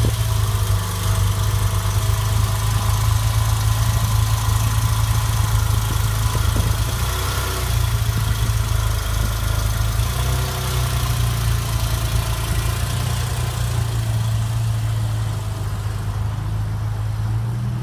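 2014 Porsche 911 Carrera 4S's 3.8-litre flat-six engine idling steadily.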